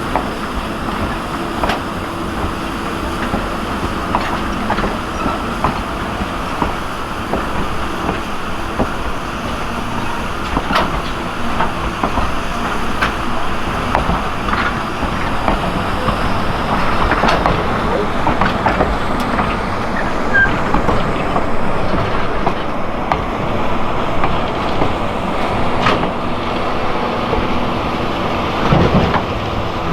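Heritage steam train rolling along the track: a steady rumble of the cars with scattered sharp clicks from the wheels, a little louder in the second half.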